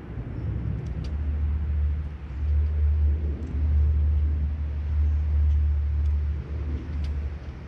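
A loud low rumble that wavers and dips briefly a few times, with a few faint, short high ticks over it.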